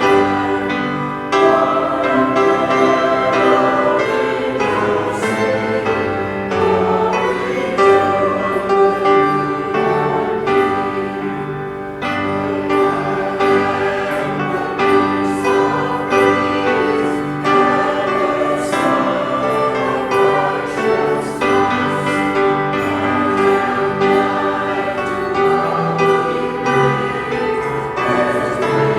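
Choir singing a Christmas carol with instrumental accompaniment.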